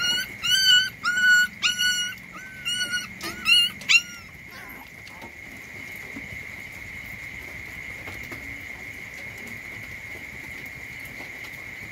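Puppy whimpering: a quick series of about eight short, high-pitched whines in the first four seconds. A steady high insect drone runs underneath throughout.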